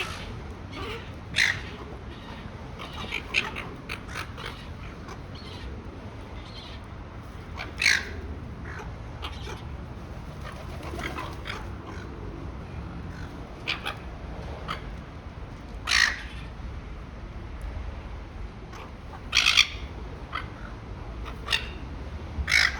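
Silver gulls calling while feeding: short loud squawks every few seconds, with fainter calls in between, over a steady low background noise.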